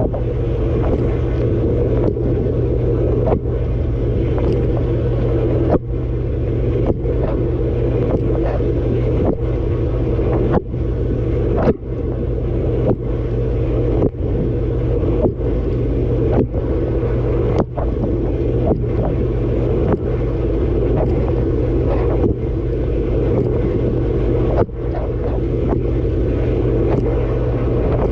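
Dishwasher running its wash, heard from inside the tub: a steady pump hum under a dense wash of spraying water hitting the camera. A regular pulse interrupts it a little more than once a second.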